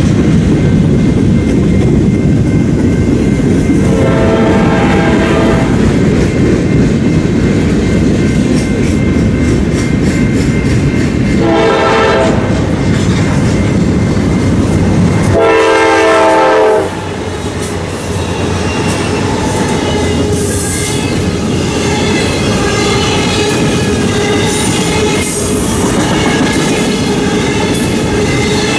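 Freight train rolling past with a steady wheel rumble while an approaching Norfolk Southern locomotive sounds its air horn three times: about four seconds in, near twelve seconds and near sixteen seconds. The rumble drops off suddenly just after the third blast. Intermodal flatcars carrying trailers then roll by with clacking wheels and a faint squeal.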